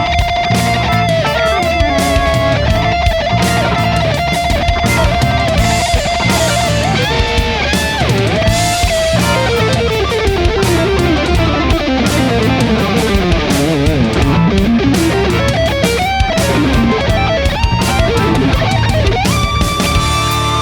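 Instrumental rock: an electric guitar plays a lead solo over programmed drums and bass. It holds a wavering note at first, then plays fast descending runs. A sustained keyboard chord enters near the end.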